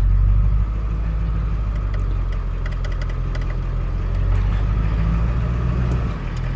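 Truck engine running steadily at low speed as the truck pulls away towering a trailer, heard from inside the cab, with a few faint clicks in the middle.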